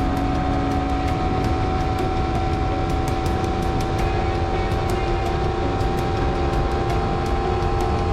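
Honda CBR250RR parallel-twin engine with an Akrapovic slip-on exhaust, running at a steady, unchanging pitch.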